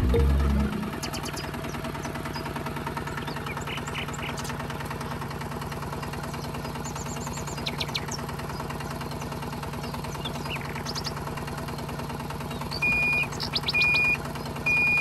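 The small motor of a homemade mini tractor running steadily with a fast, even pulsing, birds chirping faintly behind it. Near the end, short high repeated tones come in louder over it.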